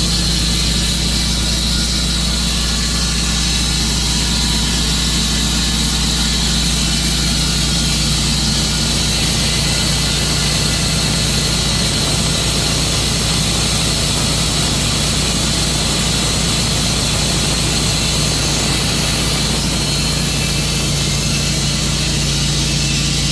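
Tru-Cut sawmill running steadily, its gasoline engine holding a constant speed.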